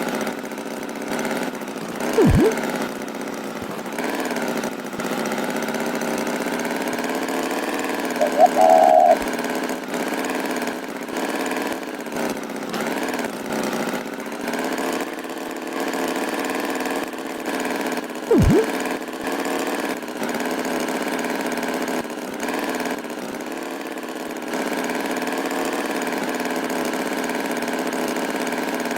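Cartoon tractor engine sound effect running steadily, its pitch wavering slightly. Twice, about two seconds in and again past the middle, a quick falling-pitch sound effect cuts across it, and a short high pitched sound comes about eight seconds in.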